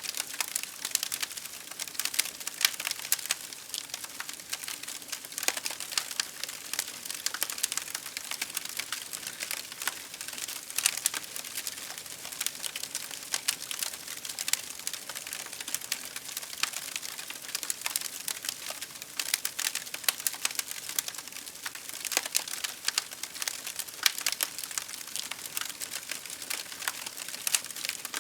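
Wood fire burning with steady irregular crackling and popping over a soft hiss.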